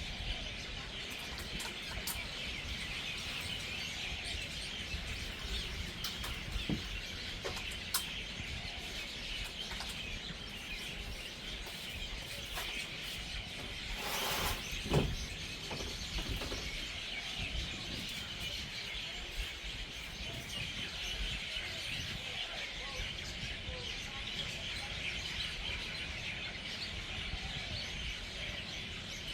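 A dense, steady chorus of many birds chirping and chattering as they gather to roost for the night. A brief louder noise stands out about halfway through.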